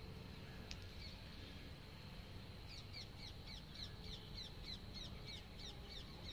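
A bird calling faintly in a rapid series of short, high, falling notes, about four a second, starting about three seconds in, over a low steady rumble.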